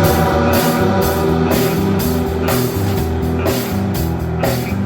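Instrumental passage of a rock song: drum kit keeping a steady beat under guitars, with no singing.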